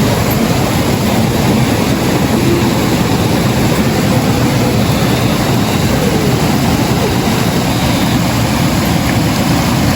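Loud, steady vehicle noise, an unbroken rumble with no distinct events.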